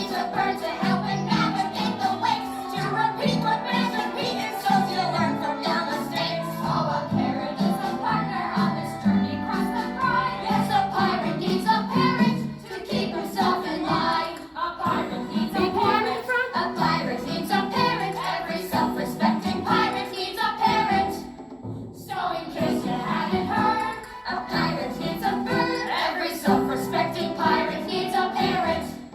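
A children's song: voices singing together over instrumental accompaniment, with a brief break about 22 seconds in.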